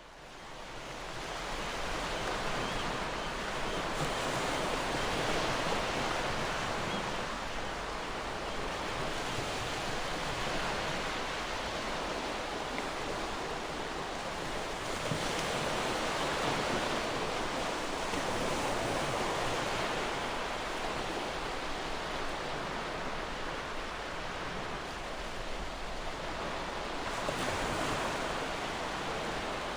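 Gentle ocean surf washing in, a steady rushing noise that swells and eases slowly. It fades in over the first second or two.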